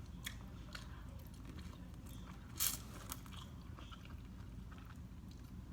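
A person chewing and biting food from a seafood boil, with small wet mouth clicks throughout and one louder crunchy burst about two and a half seconds in.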